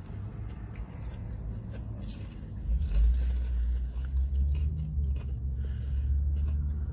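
Chewing and biting of crisp-breaded fried chicken, with paper napkin handling. A low rumble sets in about three seconds in and is the loudest thing.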